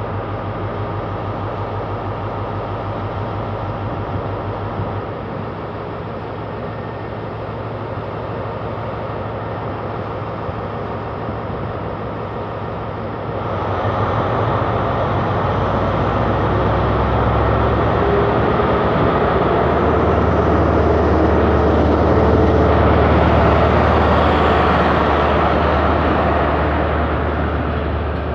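Class 43 HST (InterCity 125) diesel power car running as the train pulls out; a steady engine note at first, growing louder and rougher about halfway through as it powers up to leave.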